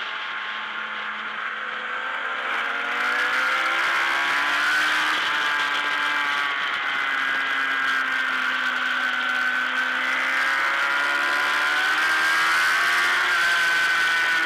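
Onboard sound of a racing motorcycle's engine at race speed. Its pitch climbs from low about two seconds in as the bike accelerates, sags slowly through the middle, then climbs again in the last few seconds.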